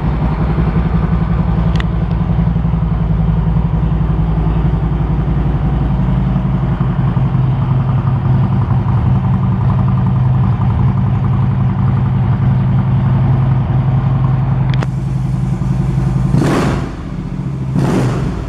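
Harley-Davidson Twin Cam 103 V-twin with a Vance & Hines aftermarket exhaust idling steadily. Near the end come two short rushing noises.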